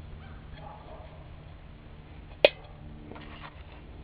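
A single sharp snap about two and a half seconds in, typical of a stick of kindling being broken by hand, against a faint steady hum.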